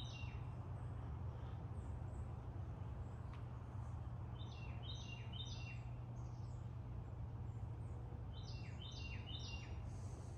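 A bird calling in quick groups of three short high notes, repeated about every four seconds, over a steady low hum.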